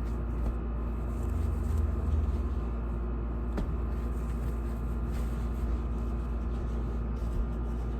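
Steady low rumble and hum, with a few faint ticks.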